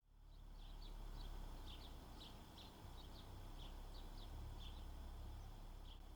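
Faint birds chirping: short high calls repeated several times a second over a steady low rumble.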